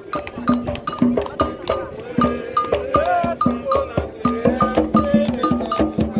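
Candomblé toque: hand drums struck under a metal bell beating a steady repeating pattern about twice a second, with voices singing over it.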